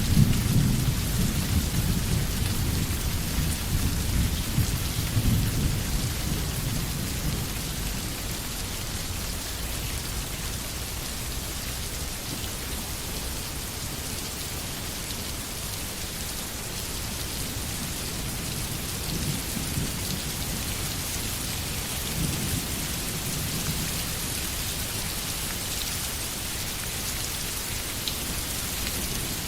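Steady rain falling with thunder: a low rolling rumble that is loudest at the start and dies away over the first several seconds, and fainter rumbles about two-thirds of the way through.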